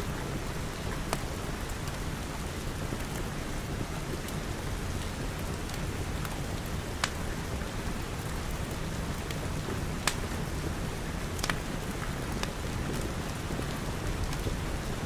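Steady rain falling on a glass roof and walls, with a few sharp pops and crackles from a wood fire scattered through it.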